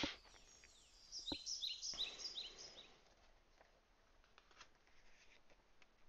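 A bird chirping: a quick run of short, high chirps lasting about two seconds, followed by a few faint ticks.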